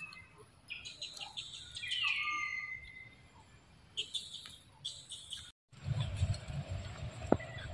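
Birds chirping, with short high chirps and one clear whistled call falling in pitch about two seconds in. After a brief dropout near the middle, a low rumbling noise takes over, with a sharp click near the end.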